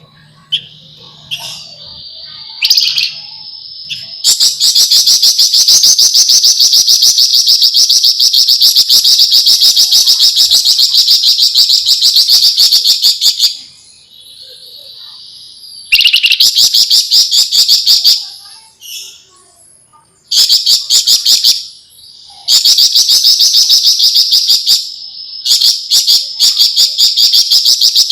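Javan fulvetta singing: a few soft, short high notes, then long, very fast high-pitched rattling trills. The trills repeat several times with short breaks between them.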